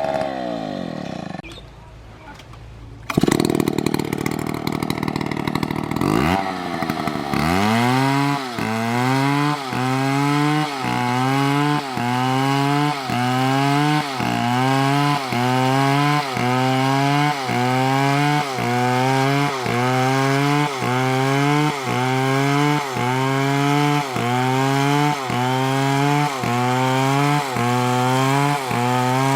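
Two-stroke chainsaw cutting wood. Its revs fall and it quietens briefly near the start, then it runs loud again. From about eight seconds in, the engine pitch surges and sags in a steady rhythm about once a second as the chain works through the cut.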